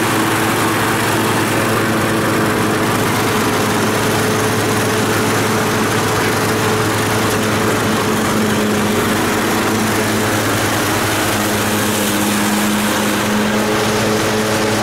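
Engine of a 13-horsepower Yard Machines riding lawn mower running steadily under way, a constant drone with a steady pitch.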